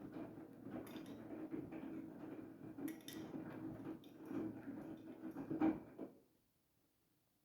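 Siemens iQ700 front-loading washing machine in its main wash on the cotton 60 °C programme: the drum turns with a steady motor hum while the wet laundry tumbles and knocks inside it. The drum stops about six seconds in, a pause in the wash rhythm.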